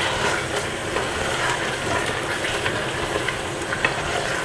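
Chicken in a thick butter-masala gravy sizzling steadily in a pot while a wooden spatula stirs it, with scattered light scraping ticks against the pot.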